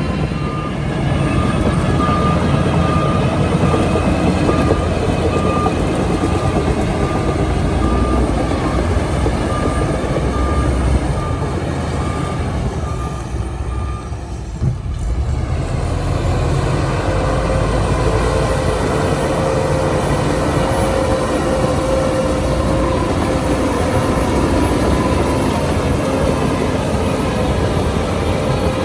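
Heavy diesel earthmoving machinery running steadily, with a reversing alarm beeping about once a second through the first half, which stops about halfway through.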